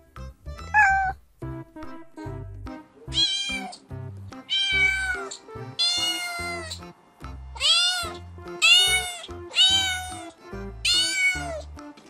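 Cat meowing over and over: a short meow about a second in, then seven long meows from about three seconds on, each rising and then falling in pitch. Background music with a steady beat plays underneath.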